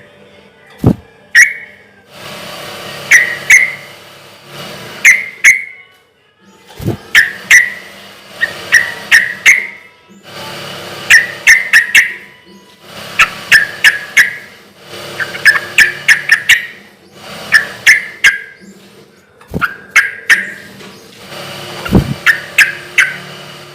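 Yellow-vented bulbul (trucukan) singing loudly: short bubbly phrases of quick, sharp chirping notes, repeated every second or two, with a few sharp knocks between phrases.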